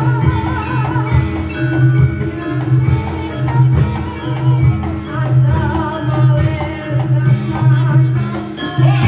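Javanese reog / kuda lumping accompaniment music: a steady low drum beat under ringing gamelan-style metal percussion, with a wavering lead melody on top.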